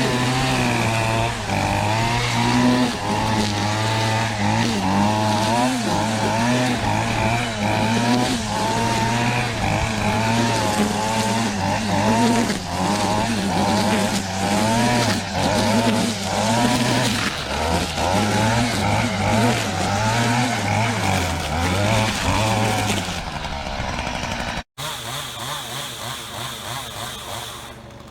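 Stihl FS38 two-stroke string trimmer running, the engine pitch rising and falling over and over as the throttle is worked while it cuts overgrowth. Near the end it drops and, after a brief break, runs more quietly and steadily, as at idle.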